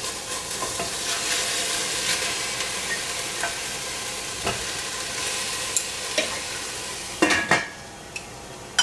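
Sausage frying in a pan over a low flame: a steady sizzle with small crackles. About seven seconds in, a metal lid or pan clanks a couple of times, and the sizzle then falls away.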